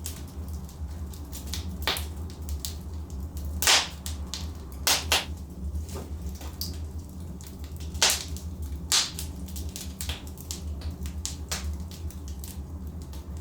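Logs burning in a fireplace, crackling with irregular sharp pops, a few louder snaps among them, over a steady low rumble.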